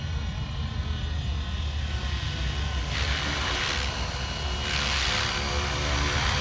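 450-size RC helicopter flying: a steady whine from its motor and rotor over a low rumble, swelling twice into a louder rushing hiss about three and five seconds in.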